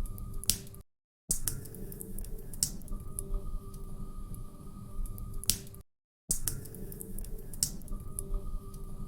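Log fire crackling in a fireplace: a low rumble of flames with frequent small crackles and a few sharp, loud pops. The sound drops out to silence briefly twice, about a second in and about six seconds in.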